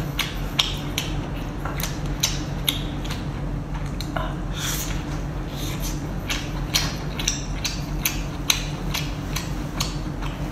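Close-miked chewing of chili-coated lobster tail meat: irregular wet clicks and smacks from the mouth, several a second, over a steady low hum.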